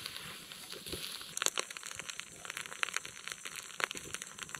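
Plastic snack wrapper crinkling as it is handled and torn open, with a dense run of small crackles from about a second in.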